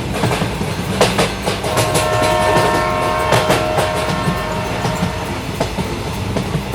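Train running with a low rumble and the clickety-clack of wheels over rail joints. A multi-note train horn sounds for about four seconds, starting about two seconds in.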